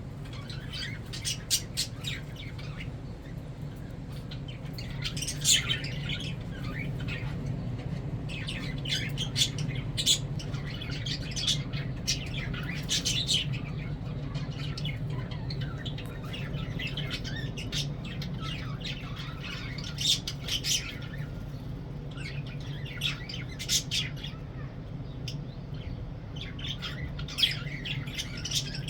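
Pet lovebirds chirping and squawking in short, shrill calls that come in irregular clusters, over a steady low hum.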